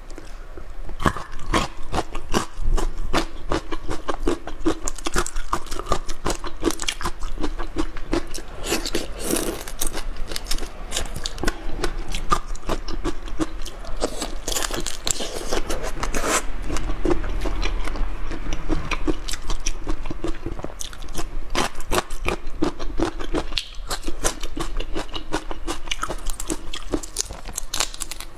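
Close-miked biting, crunching and wet chewing of marinated whole prawns: a continuous run of small crackles and clicks.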